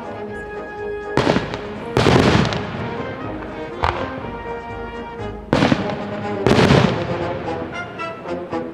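Aerial fireworks shells bursting, about five booms each trailing into a smear of noise, the loudest about two seconds in and again near six and a half seconds. Music plays underneath throughout.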